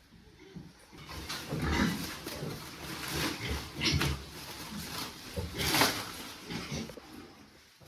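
Farm animal calls: a run of rough, irregular cries, loudest about two, four and six seconds in.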